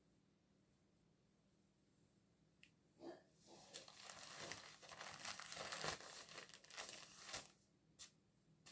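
Rustling and crinkling handling noise that starts about three seconds in, runs for about four seconds with sharp clicks, and stops, followed by a couple of single clicks.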